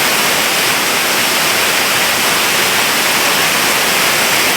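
Waterfall in spate after heavy rain, heard from close to its foot: a loud, steady rush of falling water.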